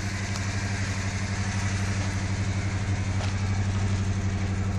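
Wood-gas-fuelled 1992 Dodge Dakota engine idling steadily, an even low pulsing note.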